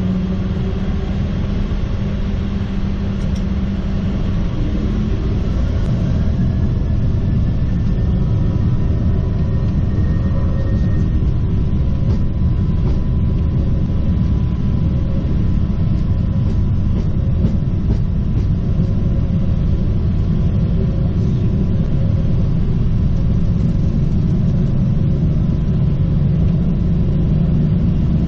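Boeing 737-800's CFM56 jet engines running, heard from inside the flight deck as a loud, steady rumble that grows slowly louder, with a faint rising whine about six seconds in.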